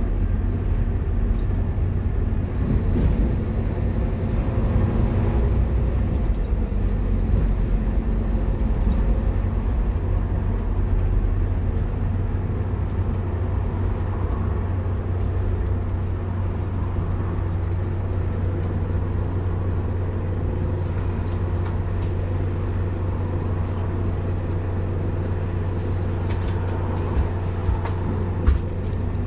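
Scania K230UB Omnilink bus under way, heard on board: a steady low engine drone with road noise. A few sharp knocks or rattles come near the end.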